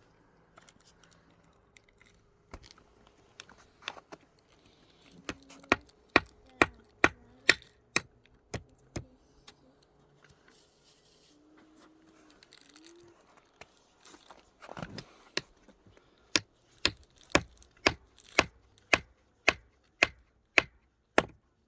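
Sharp knocks in two even runs of about a dozen each, roughly two a second, with a few scattered knocks between them.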